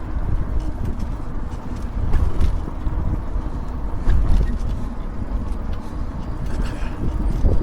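Wind buffeting the microphone over the hum of an e-bike's tyres on pavement while riding, with a few light clicks and rattles.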